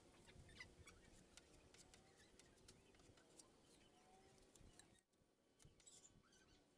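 Near silence, with faint scattered clicks and small chirping glides.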